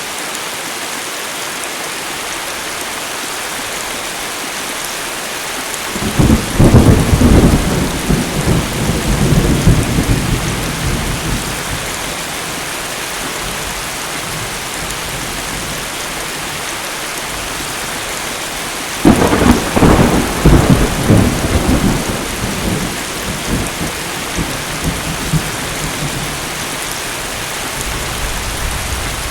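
Steady heavy rain with two long rolls of thunder: the first builds about a fifth of the way in and rumbles away over several seconds, the second cracks in suddenly about two thirds of the way in and rumbles off more slowly.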